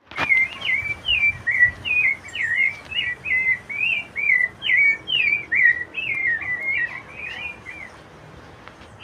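A thrush singing a fast run of short, warbled whistled phrases, about two to three a second, each sliding up and down in pitch. The song grows fainter and stops near the end.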